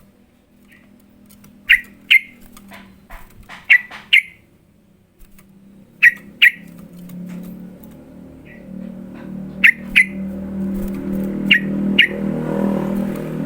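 Yellow-vented bulbul (trucukan) calling in sharp, loud chirps that come in pairs, five pairs a couple of seconds apart. A low hum underneath grows louder from about halfway through.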